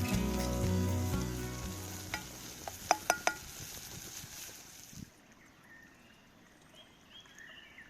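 Sliced onions frying in butter and sugar, sizzling in a pot over a campfire while being stirred, with a few sharp clinks against the pot about three seconds in. The sizzling cuts off suddenly about five seconds in.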